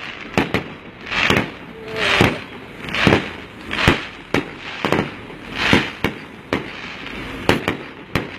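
Fireworks display: aerial shells going off in quick, irregular succession, about one or two a second, some as sharp cracks and some as longer, smeared bangs.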